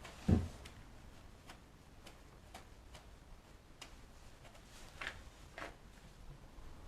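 A single dull thump near the start, then sparse light clicks and taps about a second apart.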